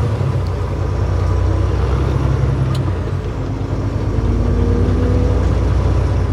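Semi truck's diesel engine and road noise heard loud in the cab with the window open, a steady low rumble whose note changes about halfway through.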